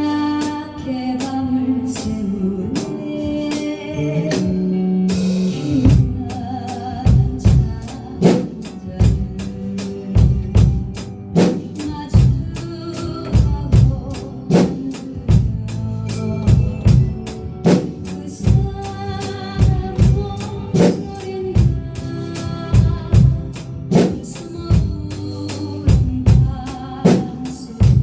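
Beginner's drum kit played along to a recorded song with singing. The kit comes in about six seconds in and keeps a steady beat of bass drum, snare and cymbal strokes under the music.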